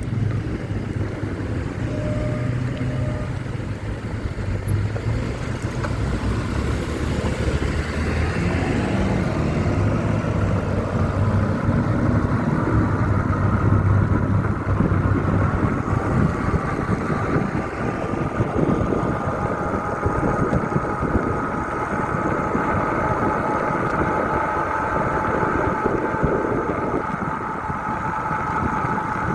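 Motorcycle engine running under way, its low note stepping up and down through the first half, then a higher tone rising slowly, over steady road noise.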